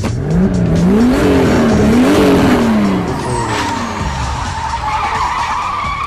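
A car engine revved up and down in quick blips, about three times in the first three seconds. After that a steady high-pitched squeal sets in and rises a little toward the end.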